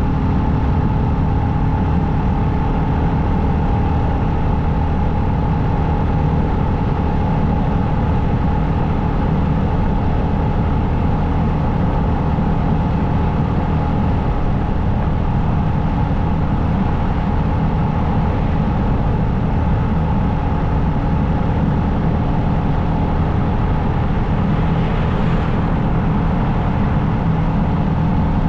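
Motorcycle engine running at a steady cruising speed, an even drone with several constant tones.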